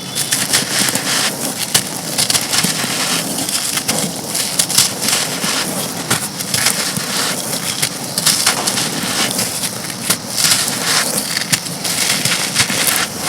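Dry, dusty black crumbly blocks being crushed and crumbled, a dense, continuous run of crisp crunching and crackling.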